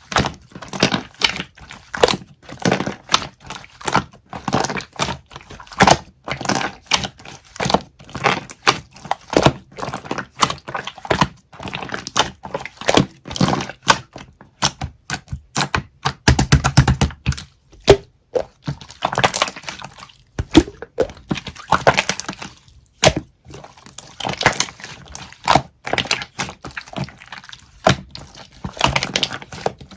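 Pink pearl slime being worked by hand, giving a rapid, irregular run of sticky clicks and pops, with denser crackling patches now and then.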